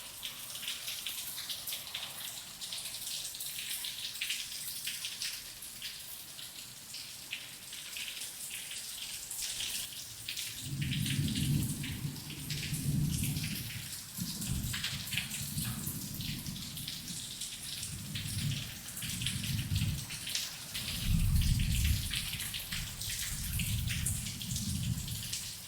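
Heavy rain with a dense patter of drops, and rolling thunder setting in about halfway through as a run of deep rumbles, the loudest near the end.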